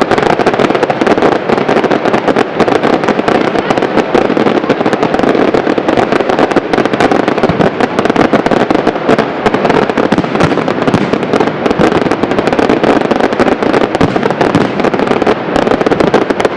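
Fireworks display in a dense, continuous barrage: many shell bursts and crackling reports in rapid succession, with no pauses.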